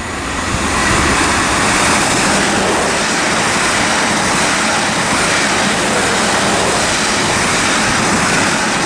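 A pair of Class 444 Siemens Desiro electric multiple units passing through the station. The steady rush of wheels on rail builds over about the first second, then holds at a constant loud level.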